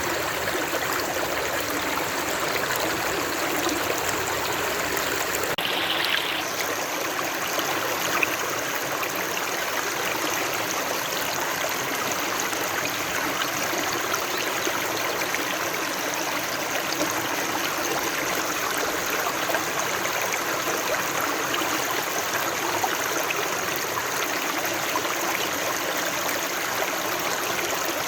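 Running water of a stream, a steady, even rushing and trickling.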